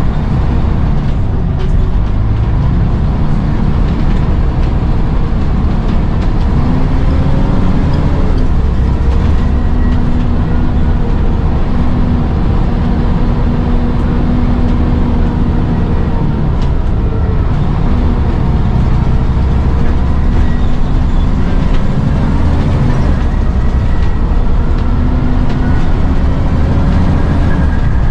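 Scania N94UD double-decker bus's diesel engine running under way with a steady low rumble, its engine note rising and falling every few seconds as it pulls away and changes gear.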